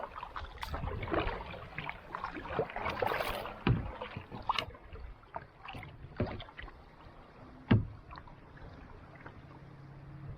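Kayak paddle strokes in calm sea water: uneven splashing and dripping as the blade dips and lifts, with one sharp, louder stroke about three-quarters of the way through. The water grows quieter near the end.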